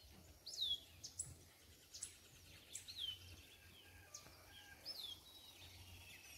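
Birds calling faintly: short high chirps, and a repeated call that slides down in pitch about every two seconds.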